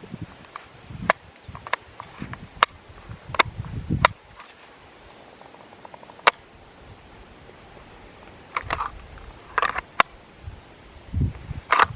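Irregular sharp clicks and knocks, some with a dull low thud beneath, spaced a second or so apart. There is a gap of a few seconds in the middle, then a cluster near the end, over a quiet background.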